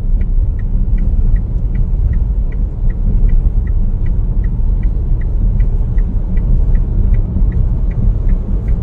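Heavy, steady rumble of a vehicle on the move in a sandstorm, with a light tick repeating evenly about two and a half times a second.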